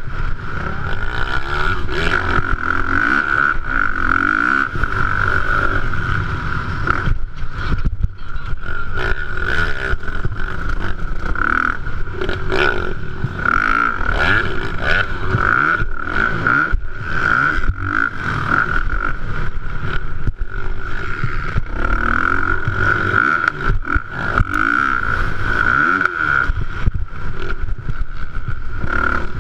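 450cc motocross bike engines racing, revving up and down over and over as the throttle opens and shuts, with a steady high whine throughout.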